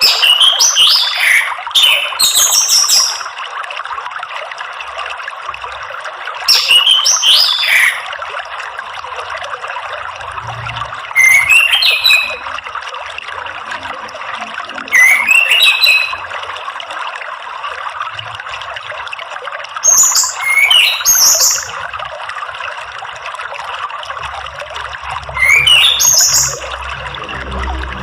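Orange-headed thrush singing short phrases of rising and falling whistles, about a second each, seven times at roughly four-second intervals, over a steady trickle of running water.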